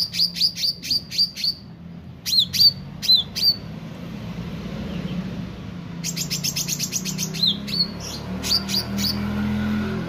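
A caged meranti bird chirping actively, in quick runs of sharp, high, downward-flicking notes with a short lull in the middle. A low steady hum runs underneath.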